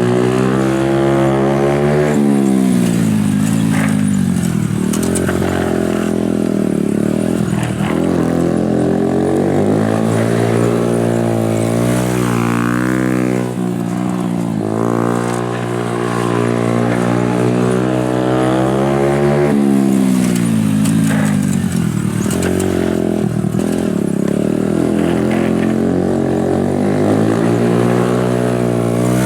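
Honda Super Cub's single-cylinder four-stroke engine running through a RAIJIN aftermarket exhaust, ridden hard at racing practice: the engine pitch climbs, drops and climbs again over and over as it accelerates, shifts and slows.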